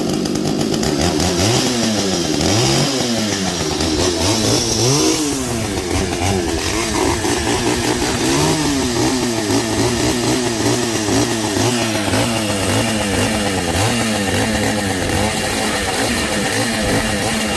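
Two-stroke chainsaw running hard, its engine pitch swinging up and down again and again as it is revved and loaded.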